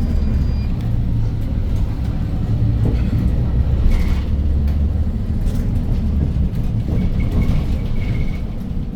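Inside a Hyundai New Super Aerocity city bus driving along, its C6AF CNG engine and the road giving a steady low rumble. The deepest part of the drone eases after about six and a half seconds.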